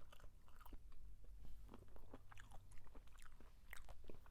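A person chewing crunchy food close to the microphone: irregular, crisp crunches and wet mouth clicks, several a second.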